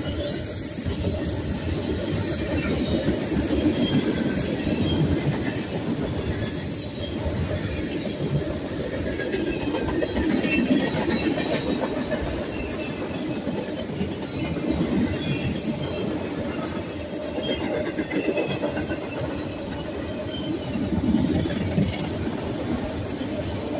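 Freight cars of a fast-moving manifest train rolling past: tank cars, a boxcar and autorack cars, their steel wheels rumbling steadily on the rails and clicking over rail joints, with faint high squeals.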